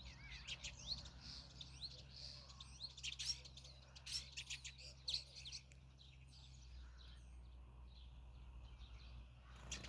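Small songbirds chirping and calling in many quick, rising notes, busiest in the first six seconds and sparser after, over a faint steady low hum.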